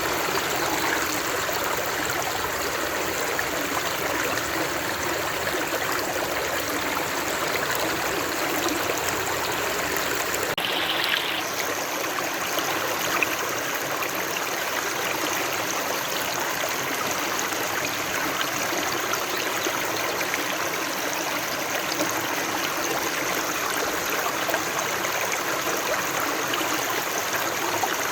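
Steady rushing of flowing stream water. About ten seconds in there is a brief brighter splash, and the sound shifts slightly, with less low rumble after it.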